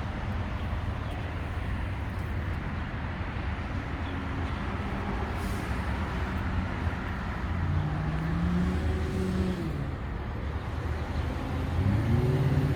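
2009 Harley-Davidson CVO Softail Springer's V-twin running through its stock exhaust with original baffles, idling with a steady rumble. It is revved up and back down about two-thirds of the way through, and rises again near the end.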